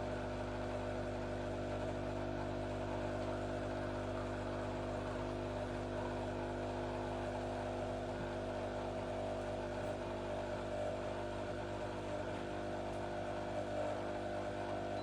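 Breville espresso machine's pump running steadily during a double-shot extraction, a constant buzzing hum that cuts off suddenly at the end as the shot stops automatically.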